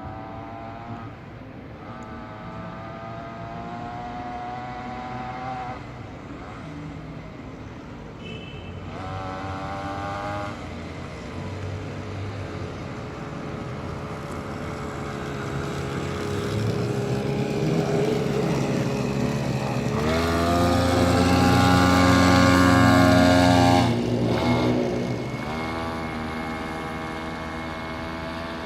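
Small gasoline engine of an engine-powered kick scooter running, its pitch rising and falling as it is revved several times. The highest and loudest rev comes about twenty seconds in and holds for some four seconds before dropping back.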